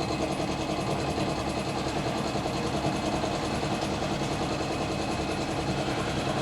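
A small engine running steadily with a fast, even chatter, holding the same speed throughout.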